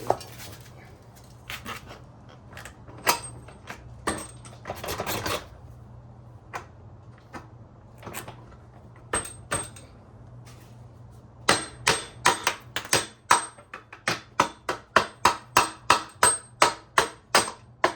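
Hammer striking metal while tapping parts into a motorcycle's rear wheel hub. Scattered knocks and clinks at first, then, about two-thirds of the way in, a steady run of sharp ringing strikes, about three a second.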